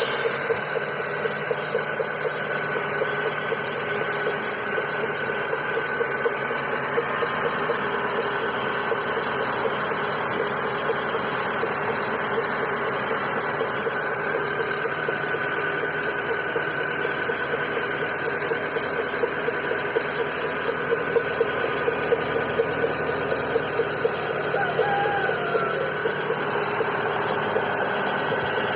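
Mitsubishi Lancer IX engine idling steadily, with an even, repeating ticking knock running through it. This is the extraneous noise the owner hears with the engine running and cannot diagnose.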